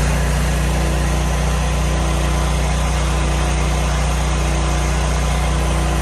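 Pressure washer's engine running steadily at constant speed, a loud even hum.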